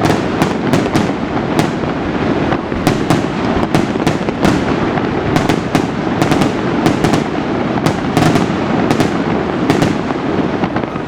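Fireworks display: many sharp bangs and reports in quick, irregular succession, several a second, over a steady rushing background.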